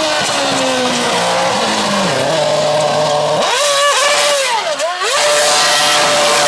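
Race car engines at speed. One car's note falls away in pitch as it passes. About three and a half seconds in, a louder engine revs up and dips twice through throttle lifts or gear changes, then holds a steady high note.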